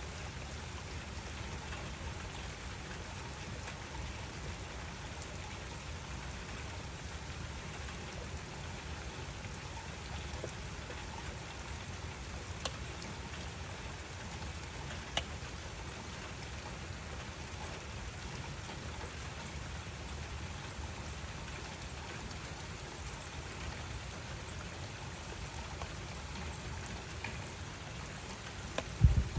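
Steady rain falling, with a few single drips ticking sharply now and then. Right at the end comes a brief, loud low thump.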